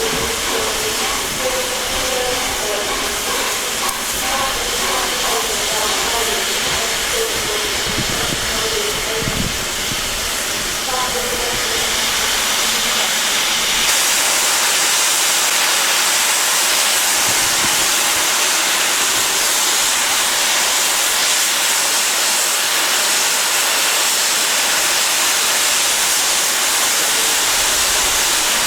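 Steam hissing from LNER A1 Pacific steam locomotive 60163 'Tornado' as it stands at the platform. The hiss is steady and grows louder about halfway through.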